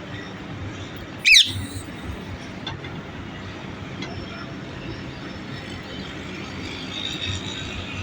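A parrot gives one short, loud, shrill screech about a second in, over steady background noise.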